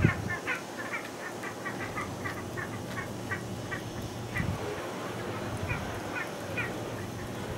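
A bird calling in a quick series of short, repeated notes, about four a second, thinning out after the middle; a low steady hum runs underneath.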